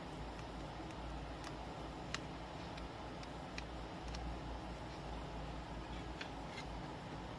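About ten faint, irregular ticks and clicks over a steady low hum and hiss, the sharpest about two seconds in: small handling and hand-tool noises at a workbench during LCD polarizer film fitting.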